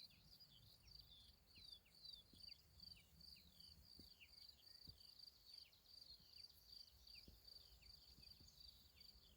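Faint birdsong: many short, high whistled notes sliding downward in quick succession over a steady, high pulsing trill.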